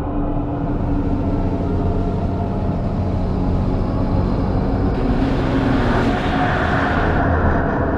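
A car passing by under a low steady hum. Its noise swells about five seconds in and fades away near the end.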